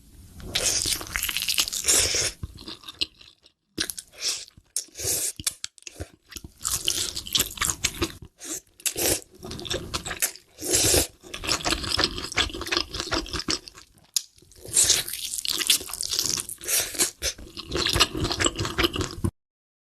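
Close-miked crunching and chewing of crispy fried chicken, in irregular bites with short pauses, cutting off abruptly near the end.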